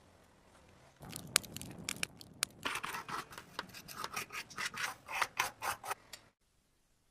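Hand scraping strokes on a small metal part, like sanding or filing rust off a die-cast toy car: scattered scratches at first, then a quick run of about three strokes a second, cutting off suddenly near the end.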